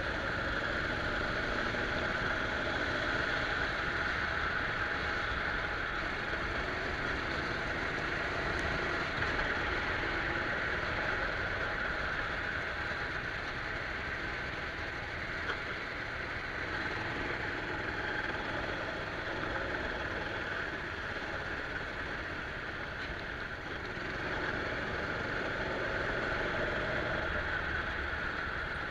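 Go-kart engine running steadily on track, heard from a camera mounted on the kart, with small rises and falls in level.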